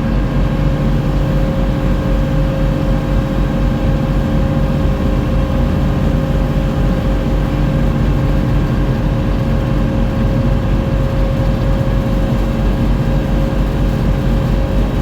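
Friendship Boat's engine running steadily under way: a constant low drone with a steady hum over it that holds unchanged throughout.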